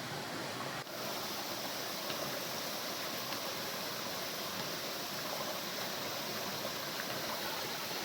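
Rushing water of a waterfall, a steady even noise with a brief dip a little under a second in.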